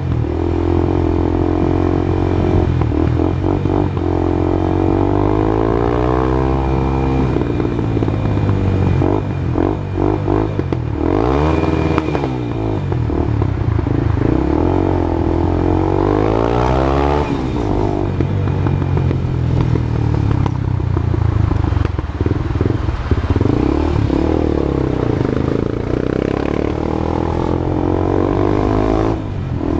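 Honda CB Twister single-cylinder motorcycle engine running through a new aftermarket exhaust, its pitch rising and falling several times as the revs go up and back down.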